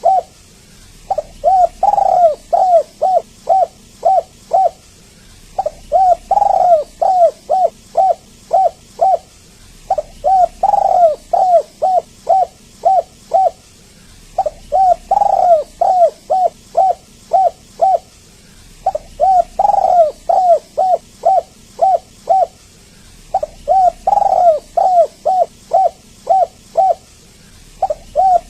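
Spotted dove cooing over and over. Each phrase is one louder, drawn-out coo set among a quick run of short coos, repeated about every four and a half seconds.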